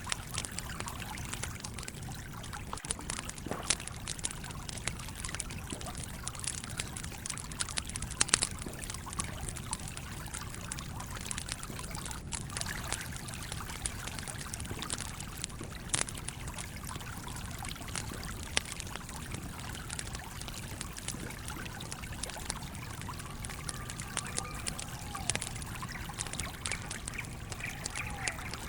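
Campfire crackling, with irregular sharp pops, over the steady rush and trickle of a flowing stream.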